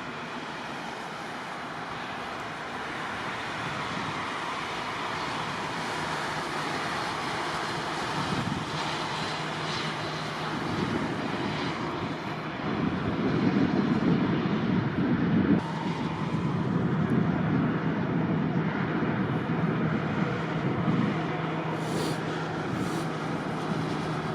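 Steady rushing noise of jet aircraft engines, growing louder about halfway through, with a low steady hum underneath.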